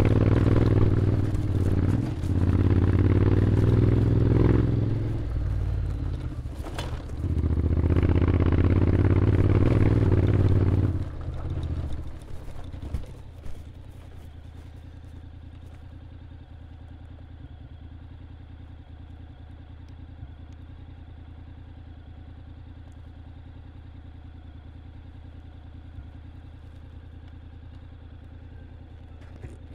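Honda X-ADV 750 parallel-twin engine running under throttle, easing off twice. About eleven seconds in it drops back to a steady idle.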